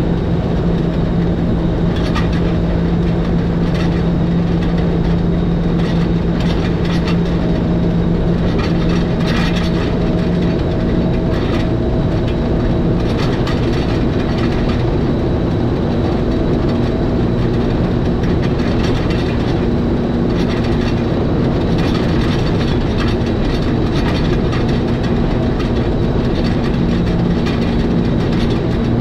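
Electric train of the Schynige Platte mountain rack railway running downhill, with steady running noise and rail clatter. A steady motor hum runs under it and shifts to a higher pitch about ten seconds in, with scattered clicks.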